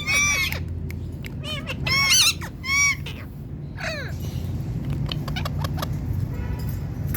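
Ringneck parakeet giving a run of short squawks in the first three seconds and one more about four seconds in.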